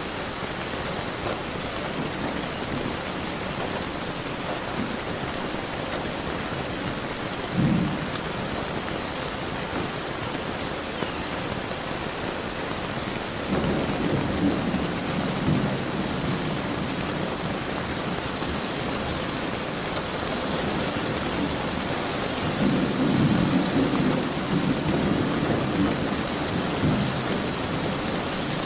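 Steady rain with thunder: a short, sharp clap about eight seconds in, then two longer low rumbles, one around the middle and one near the end.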